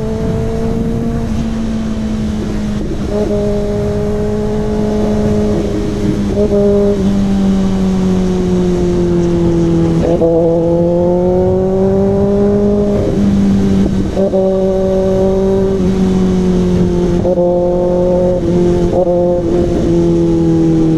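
Kawasaki ZX-6R's inline-four engine through an SC-Project CRT exhaust, running at a steady mid-range speed under way. It holds a steady droning note whose pitch drifts and shifts slightly a few times, around 3, 6, 10 and 13 seconds in.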